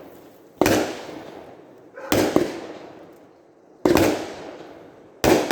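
Multi-shot consumer firework cake firing its shots one after another, about one every one and a half seconds: four sharp bangs, each fading away before the next, with a smaller extra pop just after the second.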